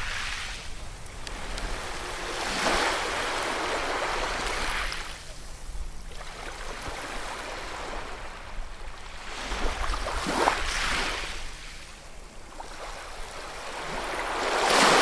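Ocean waves washing in, about three slow swells. Each one builds up and falls away, and the last rises to the loudest near the end.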